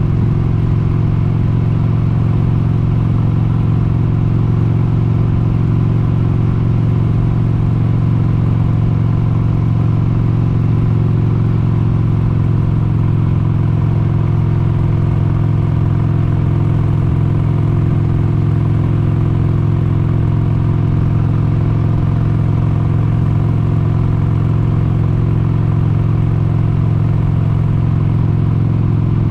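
1996 Harley-Davidson XLH883 Sportster Hugger's air-cooled 883 cc Evolution V-twin running under way at a steady cruising speed, its pitch holding even.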